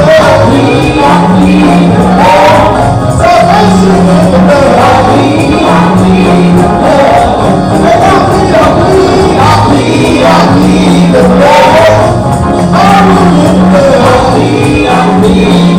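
Loud live gospel music: voices singing over a band with a repeating bass line and tambourine.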